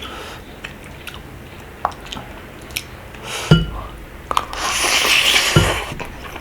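Close-miked eating of rabokki: wet chewing with small mouth clicks, a sharp knock about halfway through and another near the end, and a longer hissing stretch around five seconds in.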